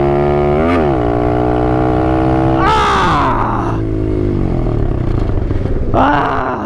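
Apollo 125 RFZ dirt bike's engine running at steady high revs, with a quick rev blip under a second in; about two and a half seconds in the revs fall away as the throttle is let off and the engine winds down.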